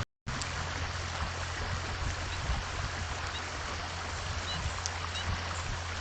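Steady rushing noise like running water, with a low hum beneath it, and a few short, faint high chirps of small birds in the second half. The sound cuts out completely for a moment at the very start.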